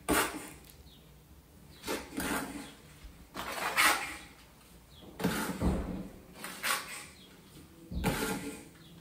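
Trowel scraping and scooping modified thinset mortar, about six separate scraping strokes with short pauses between them.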